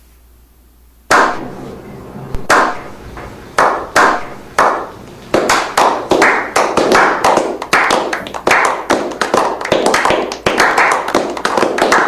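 Hand claps with a fading echo after each: slow and spaced at first, then quickening to two or three a second.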